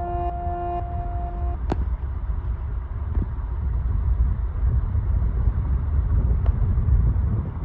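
A narrowboat under way: an uneven low rumble, with a sharp click a little under two seconds in and a fainter one near the end.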